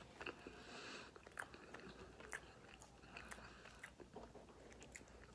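A person chewing food with faint, irregular mouth clicks.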